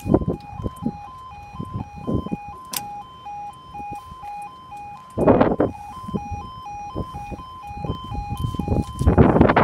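Level crossing audible warning sounding a two-tone yodel, switching steadily between a lower and a higher tone about twice a second. Rumbling gusts of wind hit the microphone, with a loud rushing noise about five seconds in and again building near the end.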